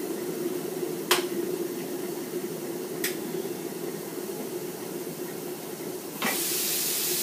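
Vegetables steaming in a covered wok on a hot plate, a soft hiss over a low steady hum, with two light knocks. About six seconds in the glass lid is lifted and a much louder sizzling hiss of frying takes over.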